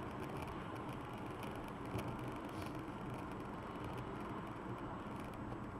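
Steady road and engine noise of a car driving, heard from inside the cabin through a dash camera.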